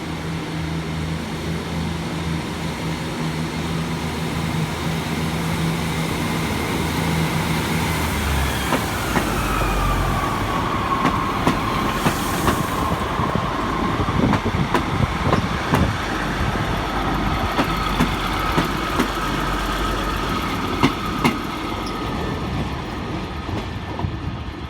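Two coupled Class 150 Sprinter diesel multiple units running into the platform. A steady diesel engine hum drops away about a third of the way in. Then a squeal falls in pitch and holds as a steady whine while the wheels click over the rail joints as the train slows.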